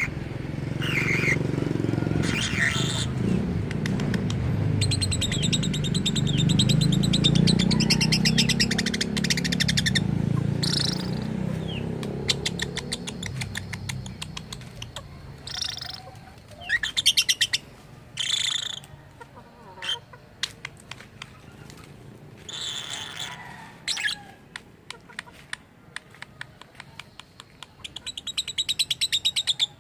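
Lovebird chattering: long runs of rapid buzzy clicking and trilling, broken by sharp loud chirps and squawks in the middle stretch. A low rumble sits underneath during the first half.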